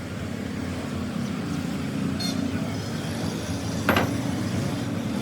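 A steady low engine or machine rumble, with one sharp metallic knock about four seconds in.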